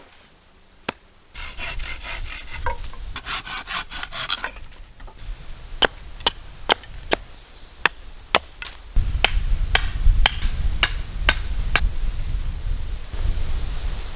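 Wood being worked with hand tools: a few seconds of rough rasping strokes, then a run of sharp blows on wood, about two a second.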